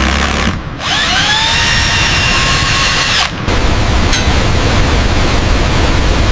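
A power drill spins up with a rising whine, runs steadily for about two and a half seconds, then stops. After it, a loud, steady rushing noise fills the rest.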